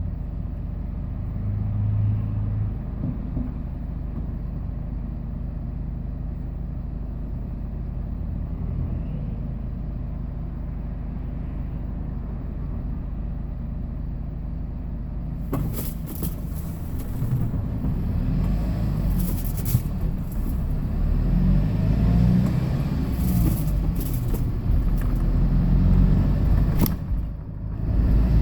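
Hyundai Porter II truck's engine humming steadily and low. About halfway it gives way to louder, rougher engine and road noise that keeps building as the truck gets moving.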